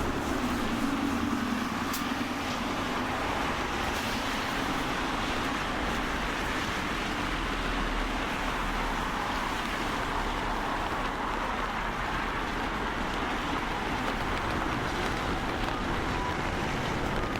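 Steady road traffic noise, an even hiss of passing vehicles, with a couple of faint ticks in the first few seconds.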